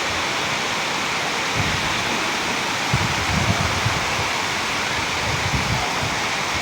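Hail coming down steadily, a dense even hiss of small stones striking, with a few low thumps scattered through it.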